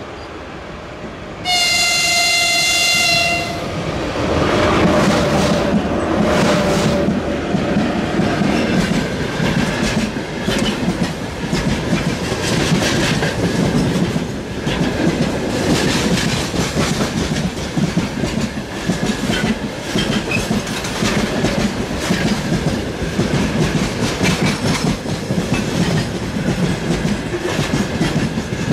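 3ES5K electric freight locomotive sounding one steady horn blast of about two seconds, then passing close by with its gondola cars, wheels clacking over the rail joints in a loud, continuous rumble.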